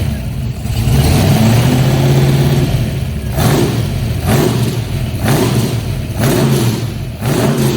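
Ford 427 side-oiler big-block V8, bored to 463 cubic inches, being revved on a cold start. It holds a raised speed for a couple of seconds, then is blipped five times, about a second apart.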